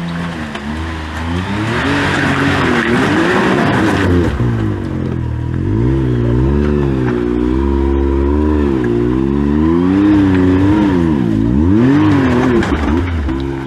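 Side-by-side UTV engine revving up and down in repeated swells, the throttle worked on and off every second or so as the machine crawls up a steep rock section.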